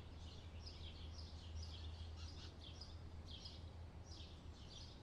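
A small bird chirping over and over, short high chirps about two to three a second, faint over a low steady outdoor rumble.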